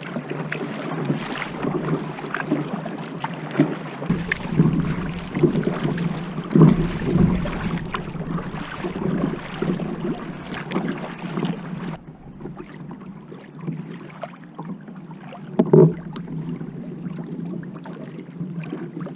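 Water lapping and splashing irregularly against a kayak hull, with wind on the microphone. The hiss drops away about twelve seconds in, and a single thump comes near the end.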